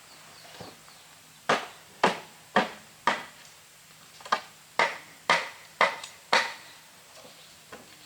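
A hand tool striking wood in steady repeated blows, about two a second: four blows, a short pause, then five more.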